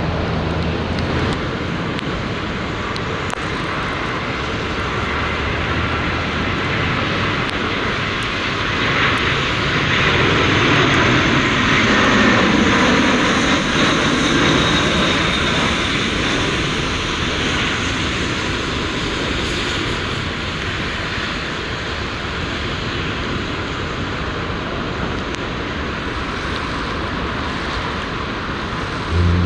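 Jet airliner on landing approach passing by: steady engine rush that swells to its loudest about a third of the way in, drops in pitch as it goes past, then fades slowly.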